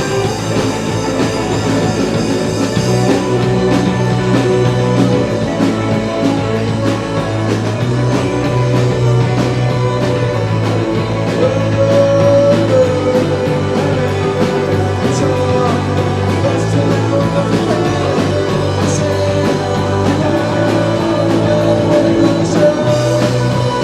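A rock band playing live: dense, steady rock music with guitars and held notes.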